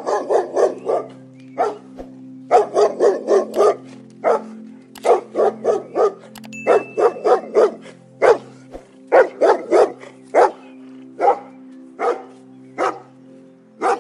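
A dog barking in quick runs of several barks, thinning to single barks in the last few seconds, over background music with held notes.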